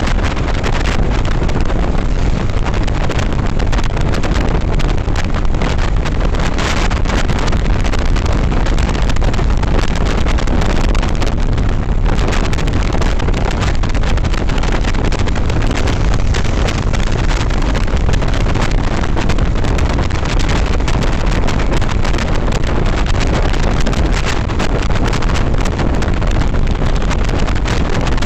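Steady wind buffeting on the microphone while riding a Yamaha FZS V3 motorcycle at speed, with the bike's running and road noise mixed underneath.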